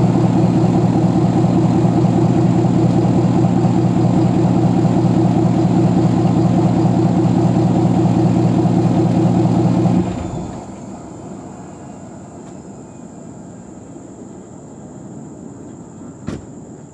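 Ford 6.7 Power Stroke V8 turbodiesel idling steadily through a 5-inch Flo-Pro exhaust with an Aero Turbine muffler. It is shut off about ten seconds in. A faint background hum remains, with a single sharp click near the end.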